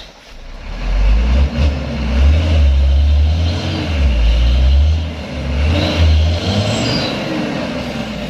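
Diesel engine of a Mitsubishi Fuso Canter truck revving hard under load on a steep climb, the pitch rising and falling repeatedly. It eases off to a lower, steadier run from about six and a half seconds in.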